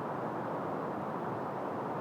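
Steady wind blowing through trees, an even rushing noise with no gusts or breaks.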